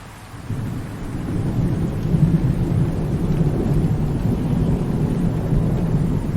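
Rolling thunder: a low rumble sets in about half a second in and builds into a long sustained roll, over a steady hiss of rain.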